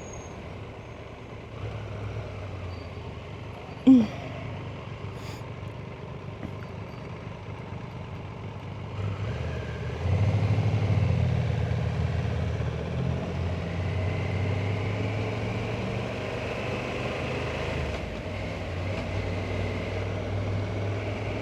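Triumph motorcycle engine running on the move, its low hum growing louder about ten seconds in as it pulls harder. A short, loud pitched sound cuts through about four seconds in.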